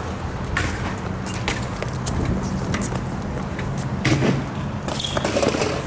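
Steady low hum of traffic or an idling engine, broken by several sharp knocks and clatters; the loudest knock comes about four seconds in.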